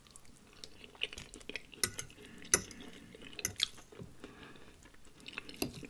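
Close-miked eating: wet chewing and lip smacks on a soft, creamy loaded baked potato, with a metal fork clicking against the ceramic bowl. The small sharp sounds come irregularly, a few each second.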